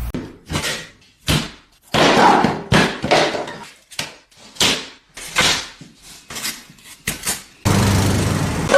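An irregular run of about a dozen hard knocks and scraping clatters, some sharp and some drawn out, with short silent gaps between them.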